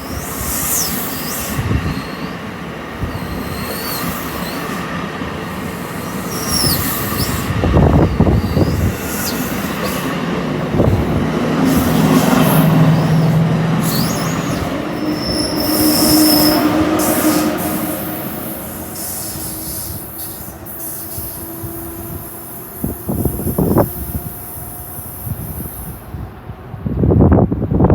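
NJ Transit train of MultiLevel double-decker coaches moving through the station, its steel wheels squealing on the rails in repeated high screeches that slide in pitch, with a steady whine through the middle. The train sound fades away near the end, with a few low thumps.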